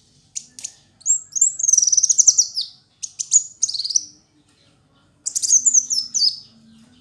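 Kolibri wulung sunbird singing: bursts of fast, high-pitched twittering with falling trills, in three phrases broken by short pauses.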